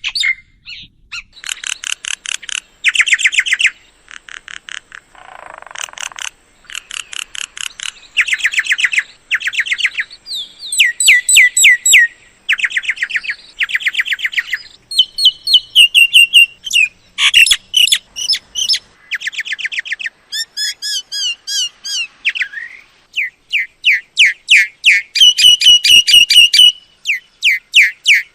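A myna calling in long bouts of rapid repeated chattering notes and trills, mixed with short whistled slurs.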